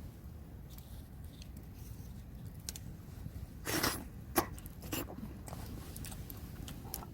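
Eating sounds: a short slurp nearly four seconds in, then a few light clicks, over a low, steady rumble.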